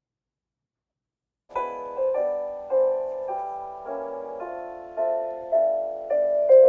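Silence, then background piano music starts about a second and a half in, with chords and a melody of struck notes that each fade before the next.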